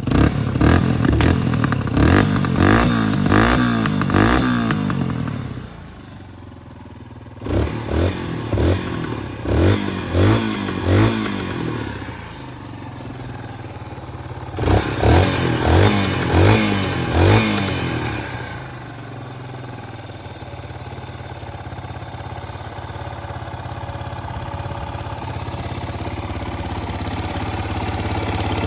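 Yamaha Serow 225's single-cylinder four-stroke engine, blipped with the throttle in three runs of quick revs, each rising and falling, with short idles between. For the last ten seconds or so it settles into a steady idle.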